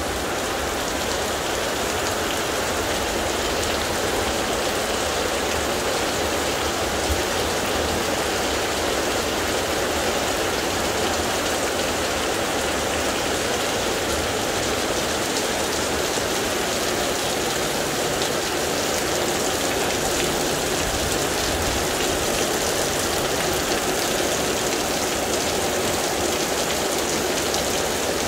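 Very heavy thunderstorm rain falling steadily in an intense downpour.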